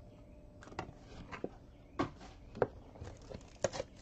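Scattered light clicks and taps of trading cards and plastic holders being handled, about six short ticks spread over a few seconds.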